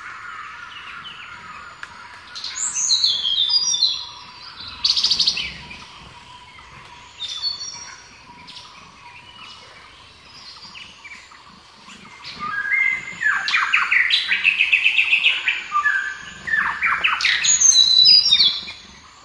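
Several songbirds chirping and singing in bursts of quick whistled phrases that often step down in pitch, busiest and loudest in the second half.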